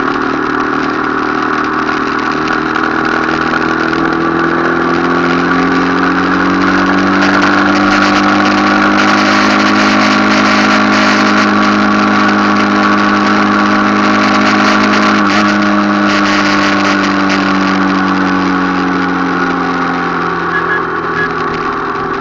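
Motorcycle engine running under way, its pitch climbing slowly over the first several seconds, holding steady, then dropping back near the end as it eases off.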